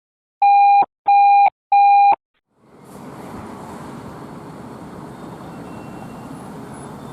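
Three short, identical electronic beeps in quick succession, each about half a second long, followed after a brief gap by a steady rumble of street noise.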